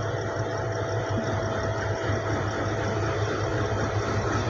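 Steady low engine hum of trains while a rake of coaches rolls slowly past, with a faint thin whine over it that fades about halfway through.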